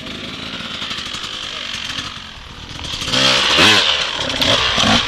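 Dirt bike engine running, with a sharp rev that rises and falls about three seconds in, the loudest moment.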